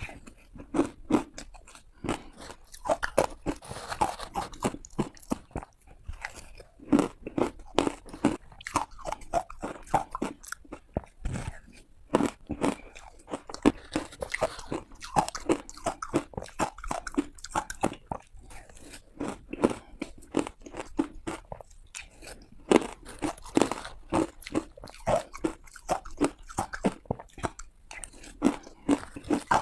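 Close-up of ice being bitten and crunched between the teeth: many sharp, brittle crunches in quick succession with short pauses between bites.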